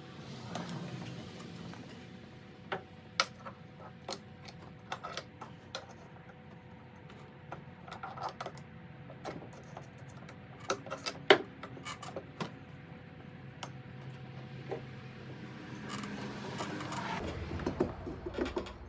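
Irregular small metal clicks and taps as the piston rings are squeezed down and the cylinder is worked back on over the piston of a Stihl BR340 leaf blower engine, with a faint steady hum underneath.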